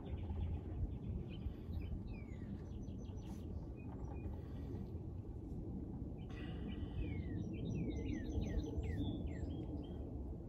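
Songbirds chirping in quick runs of short falling notes, a brief run about two seconds in and a longer one from about six seconds in, over a steady low rumble.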